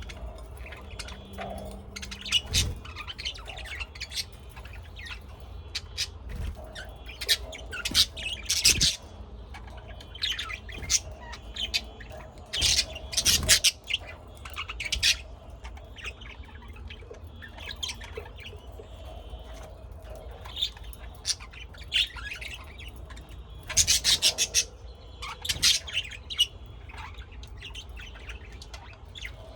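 Birds chirping: many short, sharp calls, some in quick clusters, scattered throughout.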